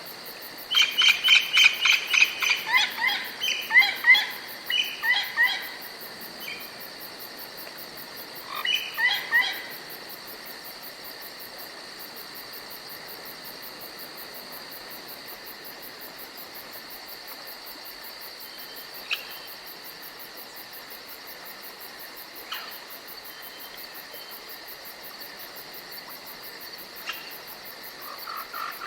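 Night-time forest animal sounds: a steady high insect drone, with a rapid train of loud repeated calls in the first few seconds, a shorter burst about nine seconds in, and a few faint single chirps later.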